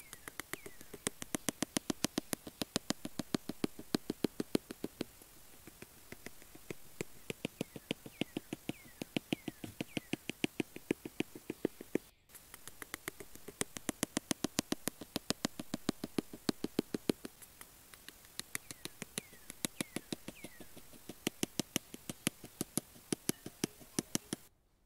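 A rapid run of sharp clicks, about five a second, coming in bursts of a few seconds with short pauses. A few clicks carry a brief falling squeak.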